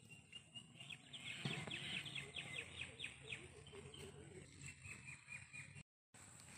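A bird singing fast trills of short falling notes, a longer run in the first half and a shorter, quieter one later. The audio drops out completely for a moment near the end.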